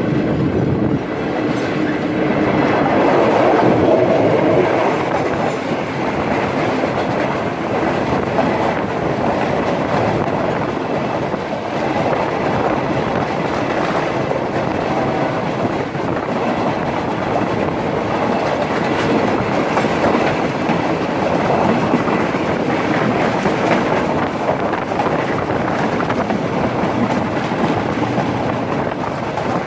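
Express passenger train running along the line: a steady loud rumble with the wheels clattering on the track.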